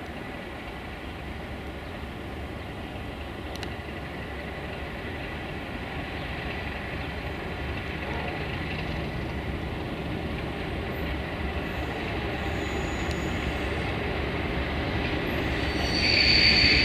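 A train approaching, a steady rumble growing gradually louder. Near the end it jumps in loudness and a high steady squeal comes in.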